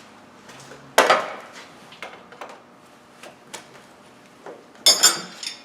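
Hand wrench knocking and clinking against the fuel line fittings as they are broken loose: a sharp knock about a second in, scattered small ticks, and a ringing metal clatter near the end.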